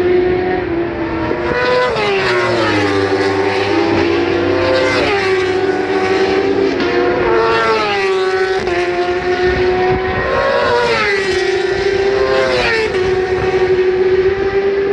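Inline-four litre superbikes passing at full speed on a race straight, about five times, each high-revving engine note dropping in pitch as the bike goes by, over a steady high engine note.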